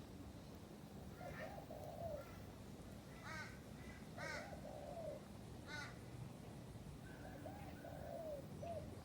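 Birds calling in the background: short, sharp pitched calls repeated several times, with lower warbling phrases in between.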